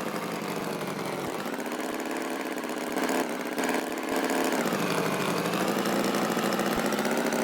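Tractor engine running steadily at low speed, its pitch sagging and picking up again about halfway through.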